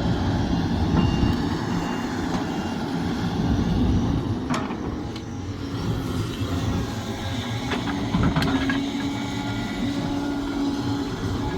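Sumitomo SH370LHD-6 hydraulic excavator working: its diesel engine runs steadily under load, with sharp metallic knocks about four and a half and eight seconds in, and a steady hum joining in after about eight seconds.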